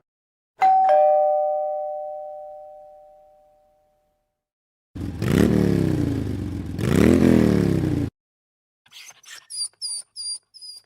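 A two-tone ding-dong doorbell chime that rings out for a few seconds. About five seconds in comes a loud, rough sound in two swells, each rising and then falling in pitch. Near the end there is a quick run of short, high chirps.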